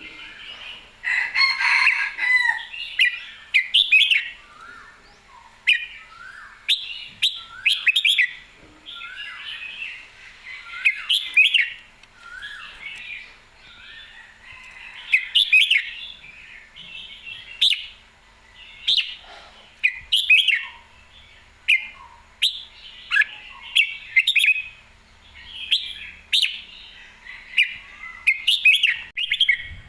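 Red-whiskered bulbul singing: short, bright whistled and warbled phrases repeated every second or two, with sharp clicks among them.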